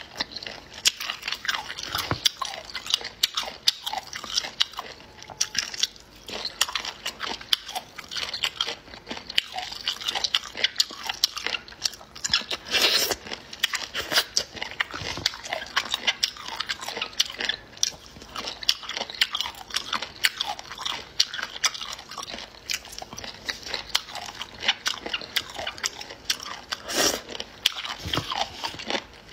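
A person chewing and biting crunchy food close to the microphone, with many crisp, irregular crunches.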